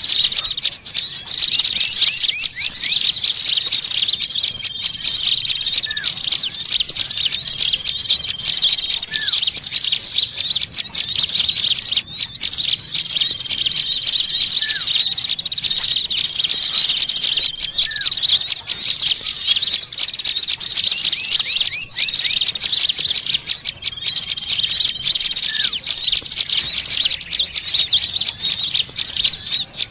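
Many small songbirds chattering and chirping at once in a dense, unbroken, high-pitched din. The calls are agitated and noisy, the kind of call played as a lure (pikat) to draw small birds in.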